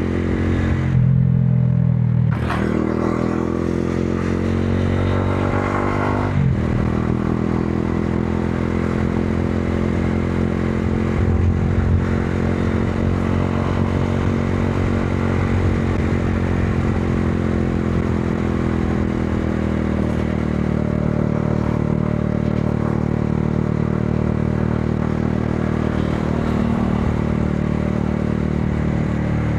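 Modenas Dominar 400's single-cylinder engine running at low road speed, with two quick throttle blips in the first six seconds, then steady running whose pitch rises and falls gently.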